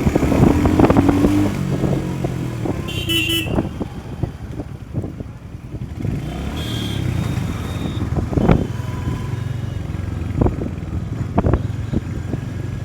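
Motorcycle running on the road. Short horn toots sound about three seconds in and again around seven seconds, over low thumps of wind or road bumps.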